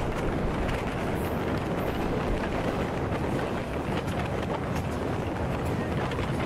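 Passenger train running along the track: a steady rumble of wheels on rails mixed with wind noise, with a few faint clicks.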